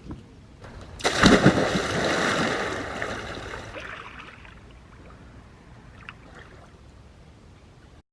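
Water splashing and sloshing, starting suddenly about a second in and fading away over a few seconds.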